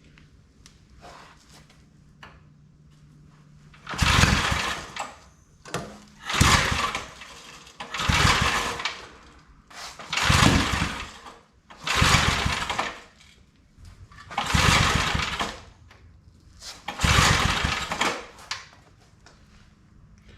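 Old 5 hp Briggs & Stratton engine being pull-started over and over, about seven pulls roughly two seconds apart beginning about four seconds in, each a short burst of cranking without the engine catching. The owner suspects it has lost its fuel.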